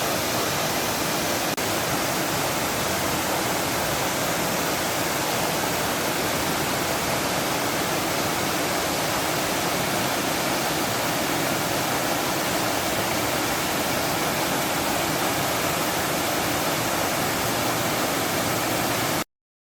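Waterfall pouring steadily, a dense, even rush of falling water; it cuts off suddenly near the end.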